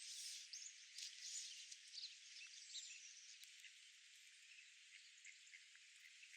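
Faint outdoor park ambience: a steady high hiss with scattered faint, brief chirps, mostly in the first half.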